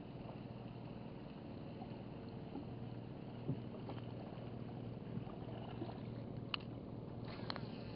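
Small boat engine running steadily, with a few sharp clicks near the end.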